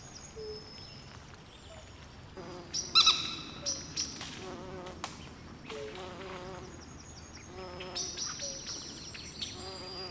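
Night swamp ambience: overlapping frog and insect calls, with wavering buzzy trills repeating several times and short high chirps. The loudest is a sharp call about three seconds in.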